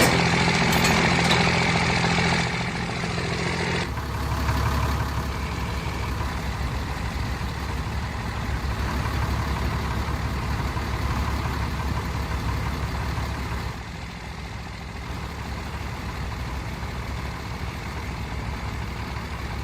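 A vehicle engine running steadily, its note shifting to a lower, deeper drone about four seconds in.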